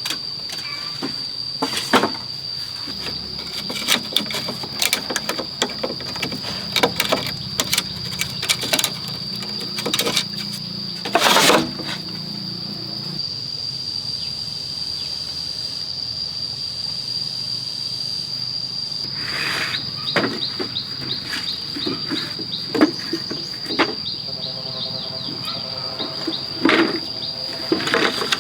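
A steady, high-pitched insect drone, like cicadas or crickets, with scattered knocks and clatter on top, one louder scraping burst about eleven seconds in.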